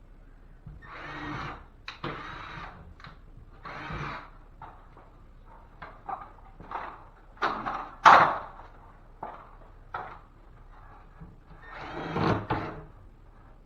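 Cordless drill driving screws through drywall into the framing in short runs, its whine rising and falling in pitch, with knocks and handling clatter between; a sharp knock about eight seconds in is the loudest sound.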